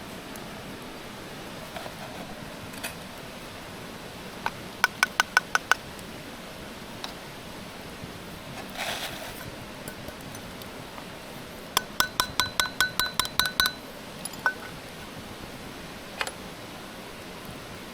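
Light clinks of a small metal or glass item ringing at one pitch, struck in two quick runs: about six strikes, then about ten a few seconds later, over a steady background hiss.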